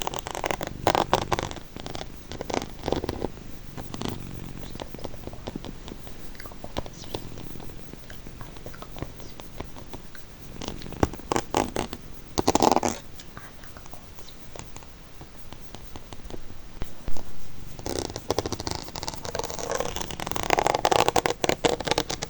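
Close-miked ASMR trigger sounds: several bursts of quick clicks and crackles, the loudest near the middle and toward the end, over a soft steady hiss.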